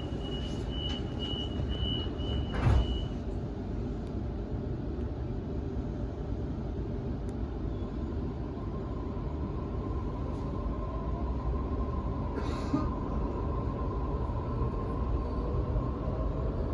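Onboard a Sydney Trains Waratah A set electric train: a steady low rumble, with a high steady tone for the first three seconds that ends in a thump. From about halfway the IGBT-VVVF traction inverter's whine comes in as a steady tone, with rising tones near the end as the train gathers speed.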